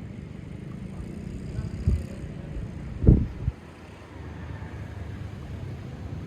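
Wind buffeting the microphone: a steady low rumble with brief gusts, the strongest about three seconds in.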